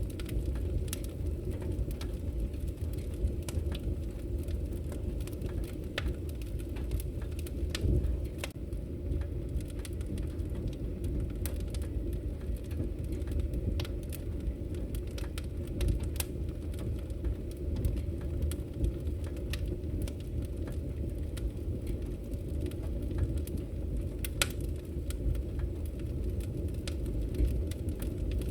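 Wood fire crackling in a fireplace: a steady low rumble of the burning logs with frequent irregular sharp pops and crackles, a few of them louder than the rest.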